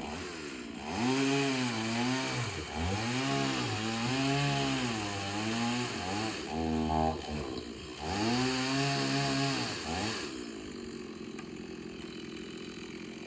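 Chainsaw cutting into wood, its engine pitch sagging and climbing again several times as the chain bites and clears. It drops back to a quieter idle about ten seconds in.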